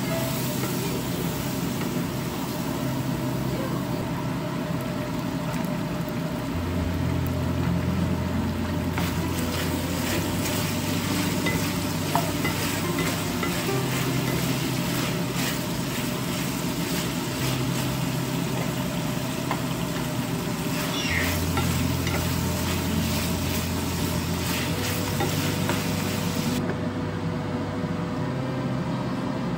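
Chicken pieces in sauce sizzling and frying in a nonstick frying pan, with a spatula stirring and scraping through them in repeated strokes. Near the end the sizzle drops away abruptly.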